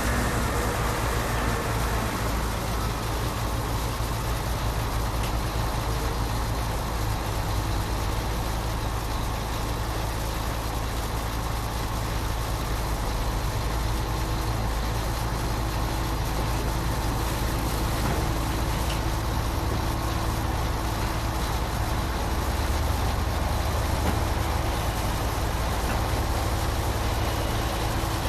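Concrete pump truck's engine running steadily, a continuous low rumble.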